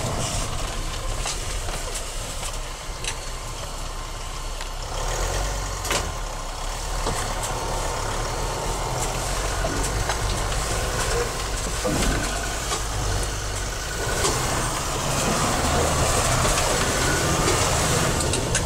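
A Mercedes Geländewagen's engine running steadily as it drives over snow, heard from inside the cab, with a couple of sharp knocks along the way. It gets louder about three-quarters of the way through.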